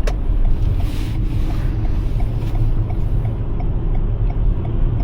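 Cabin noise of a Toyota RAV4 Prime driving slowly on a snow-covered highway: a steady low rumble of Blizzak snow tyres on snow, with wind hiss. A faint regular ticking runs underneath at about three ticks a second.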